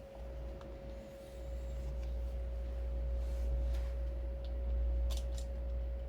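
Age-worn original heater blower motor of a Toyota Crown GXS12 running with a steady hum, the abnormal noise of an old factory blower, over a low rumble with a few faint ticks.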